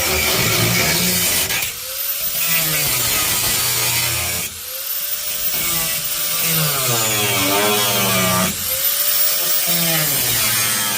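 Power tool cutting through the sheet-metal trunk floor of a 1972 Mustang, its motor pitch dipping and climbing back three times as it bites into the metal.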